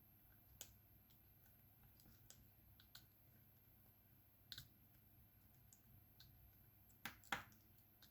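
Faint, sparse clicks and small taps of diamond painting work: a drill pen picking up resin drills and pressing them onto the sticky canvas, with two sharper clicks close together near the end.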